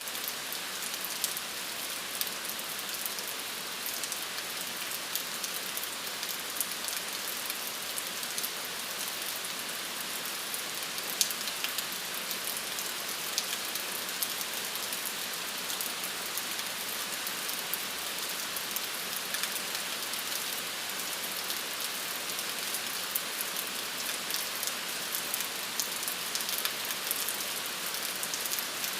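Steady rain falling: a constant hiss with many sharp ticks of individual drops scattered through it.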